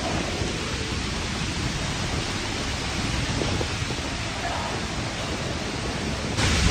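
Hurricane wind and heavy rain: a dense, steady rush of noise with uneven low rumbling underneath, turning louder and hissier near the end.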